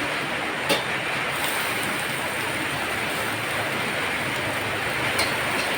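Heavy rain falling in a steady hiss, with two short sharp clicks, one under a second in and one near the end.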